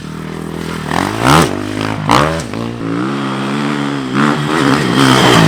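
Dirt bike engine being ridden, revving up and dropping back in pitch about four times, loudest about a second in and near the end.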